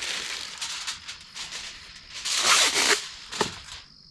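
Aluminium foil crinkling and rustling as it is handled over a baking pan, with a louder crackling burst about halfway through.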